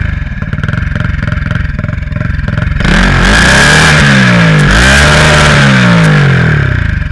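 Turbocharged Honda Titan 160 single-cylinder engine revved in blips while stationary, its pitch falling back, then rising and dropping twice, with a steady high whistle while the revs are up. The blow-off valve is disabled in an attempt at turbo flutter, which is very faint at best.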